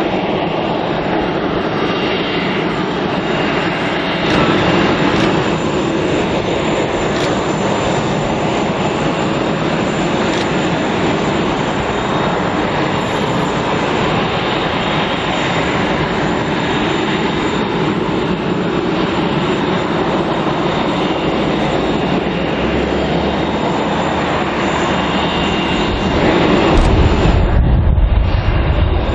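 Boeing 747-400's four jet engines at takeoff power: loud, steady jet noise with a thin high whine over it, and a deeper rumble building near the end.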